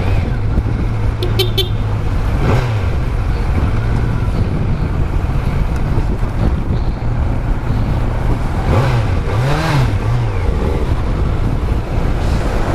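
Kawasaki Z900's inline-four engine running on its stock exhaust while under way, a steady drone that briefly rises and falls in pitch a few times with the throttle.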